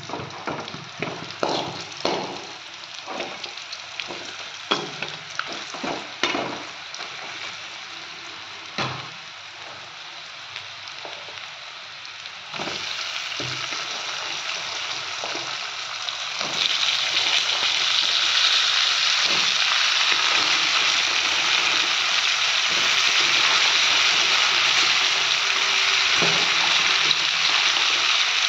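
Stirring in a kadai of frying dry fish and onions: a run of sharp knocks and scrapes against the pan. Then raw potato sticks go into the hot oil and a sizzle sets in, growing louder in two steps about halfway through and holding steady.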